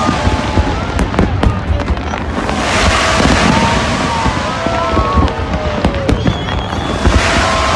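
Fireworks display heard from the crowd: a continuous rumble of bangs and crackle with sharp pops, and thin whistling tones gliding up and down.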